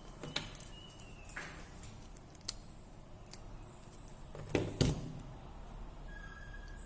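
Scattered small clicks and taps of hand tools and phone parts being handled, with a sharper pair of knocks about four and a half seconds in.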